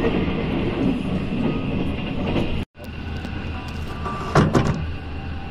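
Passenger train running at speed, heard from inside the coach: steady rumble of wheels on the track. It drops out for a moment near the middle, and about four and a half seconds in a quick run of sharp clicks comes as the wheels cross rail joints or points.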